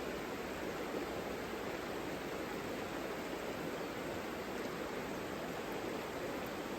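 Mountain river rushing steadily over rocks: an even, unbroken roar of flowing water.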